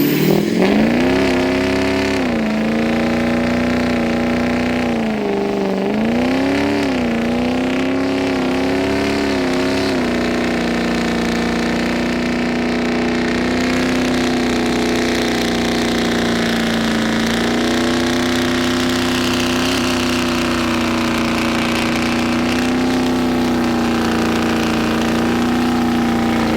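Truck engine revved hard during a burnout, its pitch rising and falling for about ten seconds, then held at steady high revs and dropping off at the end.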